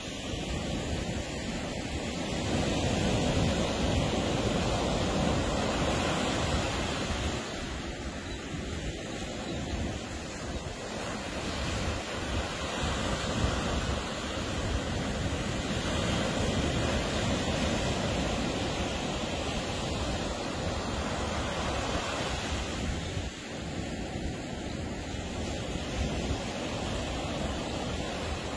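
Ocean surf breaking on a beach: a continuous wash of waves that swells up and eases off every several seconds.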